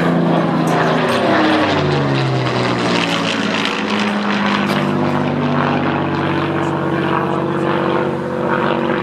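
Supermarine Spitfire's V12 piston engine droning as the aircraft flies past. The pitch drops about two seconds in as it passes, then holds steady as it moves away.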